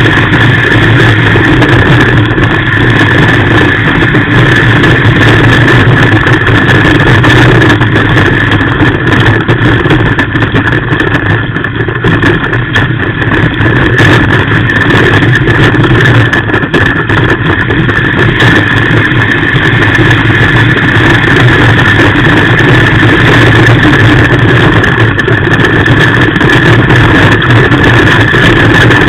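Race car engine running loud and steady, heard from inside the cabin, easing briefly about twelve and seventeen seconds in.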